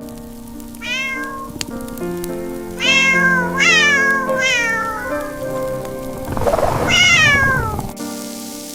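A cat meowing about five times, each meow sliding down in pitch, over steady background music.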